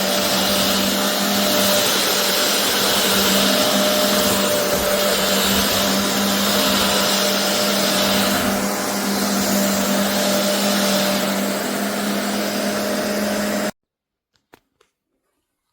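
BISSELL Revolution HydroSteam carpet cleaner's suction motor running steadily with a strong hum, then cut off suddenly near the end, followed by a few faint clicks.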